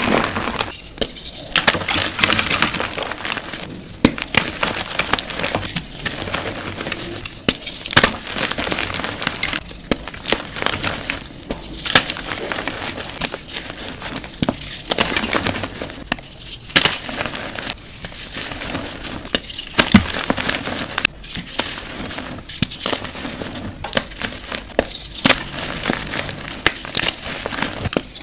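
Blocks of gym chalk being crushed, a dense crunching and crackling that comes in repeated squeezes with brief pauses between them.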